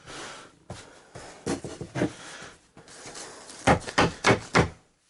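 Particle board being handled and shifted over wooden beams: rubbing and scraping, with scattered wooden knocks and a quick run of about four knocks near the end.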